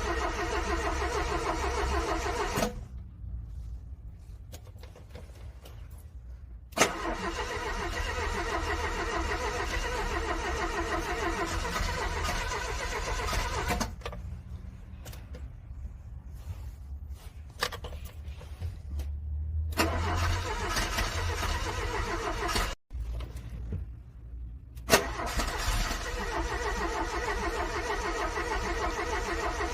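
A cold car engine being cranked on its starter, struggling to start: four long bursts of cranking with pauses of a few seconds between them, with a sharp click as two of the attempts begin.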